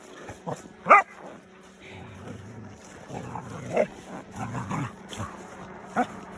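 A dog barking in play: one loud bark about a second in, then a few fainter barks and yips.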